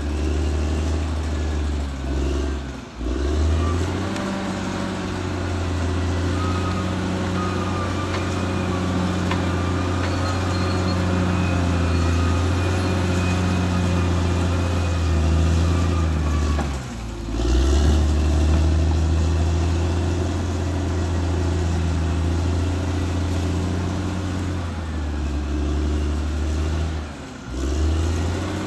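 Caterpillar D6R XL bulldozer's diesel engine running steadily with a strong low drone, thin wavering high squeals over it. The sound dips briefly three times.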